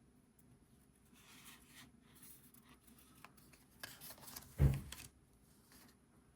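Oracle cards being handled and flipped through: faint sliding and rustling of card stock, with one louder soft thump about two-thirds of the way through.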